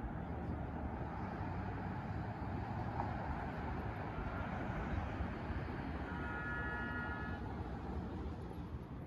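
Steady outdoor background rumble, like distant traffic. About six seconds in, a brief high pitched tone with several pitches sounds for about a second and a half.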